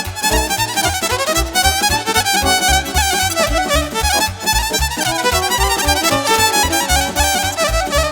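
Live Romanian folk-party band playing an instrumental dance tune, a fiddle leading the melody over a steady bass beat.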